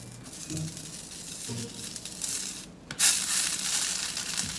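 Banana leaves crinkling and tearing as they are handled and pulled apart, with a louder crackle about three seconds in.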